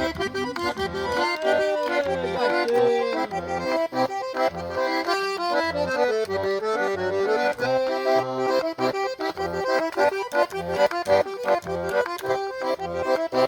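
Eight-bass diatonic button accordion (gaita botoneira) playing a tune: right-hand melody and chords over left-hand bass notes pulsing in a steady, even rhythm.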